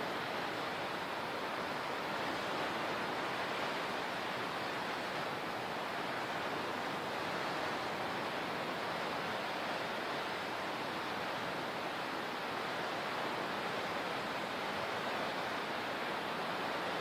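Steady, even rush of water with no distinct swells or breaks.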